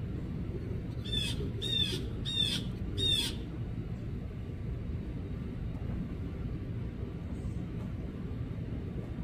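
Blue jay giving four harsh calls in quick succession, about two-thirds of a second apart, over a steady low background rumble.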